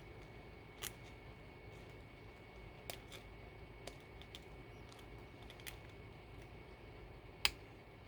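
Scissors snipping paper in a few separate cuts, the loudest near the end.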